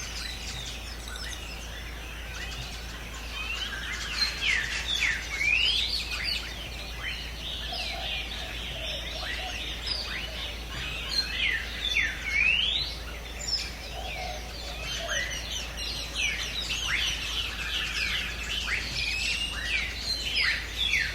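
Many birds calling at once in a dense chorus of short chirps and quick rising and falling whistled notes, with a few lower warbled calls mixed in.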